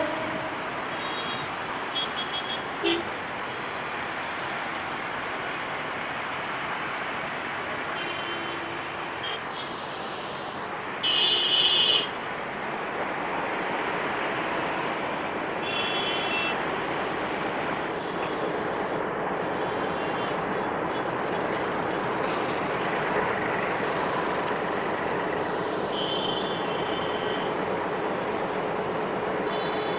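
Diesel-hauled meter-gauge passenger trains moving slowly along the tracks, a steady rumble of locomotive and wheels on rail mixed with city traffic noise. Short high-pitched horn beeps sound now and then, the loudest lasting about a second, around 11 seconds in.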